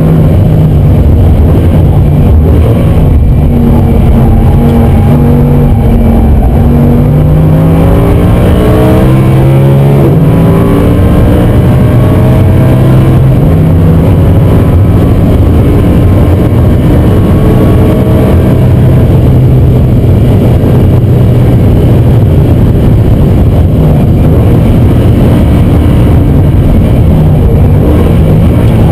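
Audi R8 V10 plus's 5.2-litre V10 engine heard from inside the cabin under hard acceleration. The revs climb steadily for about six seconds, then drop sharply at a gear change about ten seconds in, and climb again more slowly. Road and tyre noise runs underneath.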